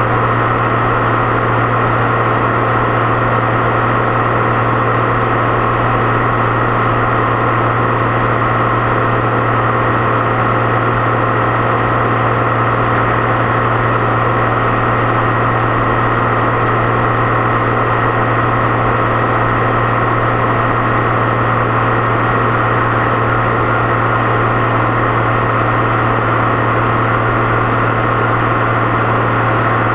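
Deutz-Fahr 6.61 tractor's diesel engine running at a steady speed on the road, with a steady high turbo whine over the engine's low drone.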